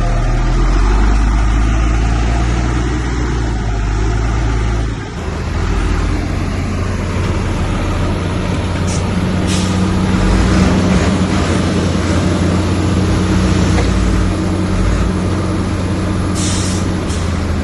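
Diesel engine of heavy earthmoving machinery running steadily, a loud low drone that shifts about five seconds in. Short hisses come near the middle and again near the end.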